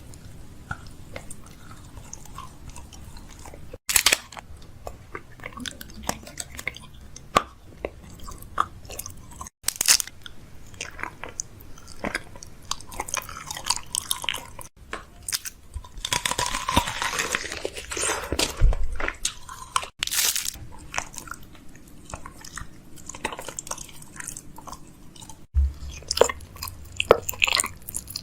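Close crunching and chewing sounds, many short crackly bites and crunches, broken by several abrupt cuts.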